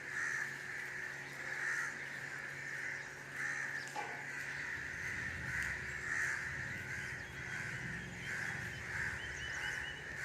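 A flock of crows cawing over and over, the calls overlapping into a continuous chorus.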